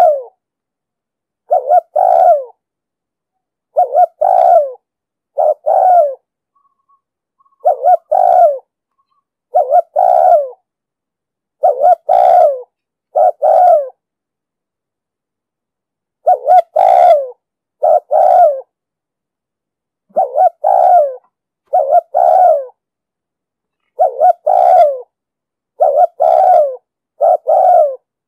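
Spotted dove (cu gáy) cooing over and over in short phrases of two or three deep notes, a phrase about every one and a half to two seconds, with a longer pause near the middle. This is the insistent 'thúc gù' coo used as a lure call to draw wild doves in.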